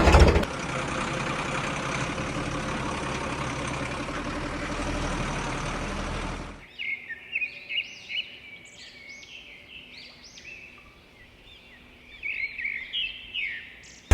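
A steady hiss of noise that cuts off suddenly about seven seconds in, followed by birds chirping and twittering in short rising and falling calls.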